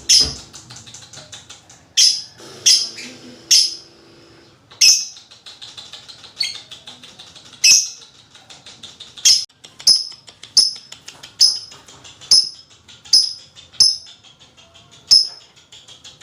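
Lovebird calling: a series of loud, sharp, shrill chirps, roughly one a second, over a fast continuous chattering trill (the 'ngekek' song).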